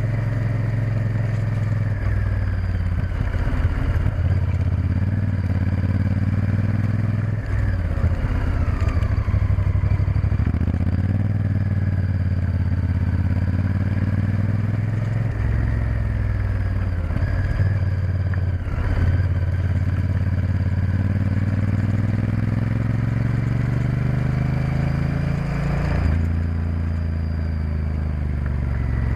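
Honda Varadero XL1000's 1000 cc V-twin engine running under way on a motorcycle, its pitch rising and falling again and again as it speeds up and slows for the bends, with a few brief drops in the note.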